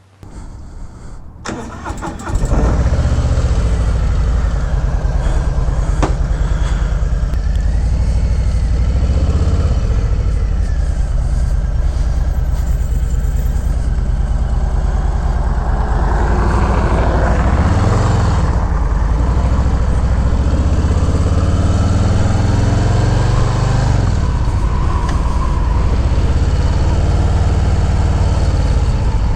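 Harley-Davidson V-twin motorcycle engine, which comes in abruptly about two seconds in and then runs loud and steady, rising and falling in revs a few times.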